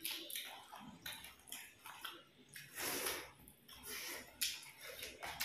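Wet chewing and lip-smacking of people eating rice and fish with their hands, in irregular short bursts.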